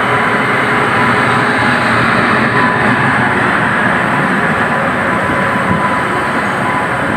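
Two electric-hauled passenger trains running side by side at speed: a steady rush and rumble of wheels on rail and wind, heard from the open doorway of an ICF coach, with a faint steady whine under it.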